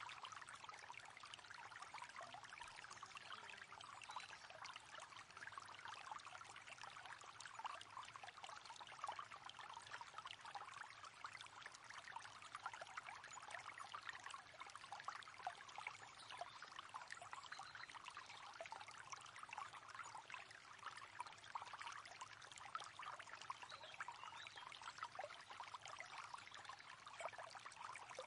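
Faint river water flowing steadily, an even rushing wash full of small splashes and gurgles.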